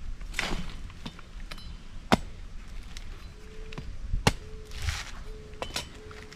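Two sharp knocks about two seconds apart amid rustling swishes, with a short low tone repeated four times in the second half.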